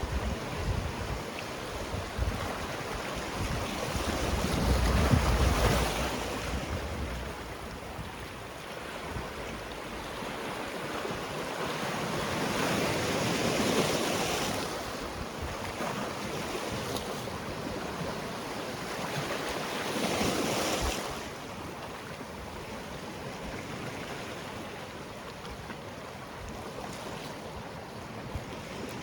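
Sea waves breaking and washing on the shore, rising and falling in three surges about seven to eight seconds apart, the first the loudest and deepest.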